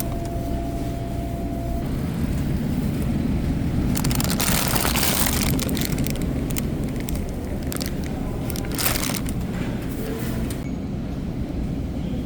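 Low, steady rumble of a Volkswagen Tiguan driving, heard from inside the cabin. There are two louder rushing surges, one about four seconds in lasting a second or so and a shorter one near nine seconds, with scattered clicks.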